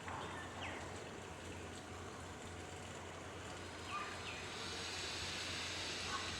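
A few short, quick-falling bird calls, about half a second in and again around four seconds in, over a steady background hiss and low hum.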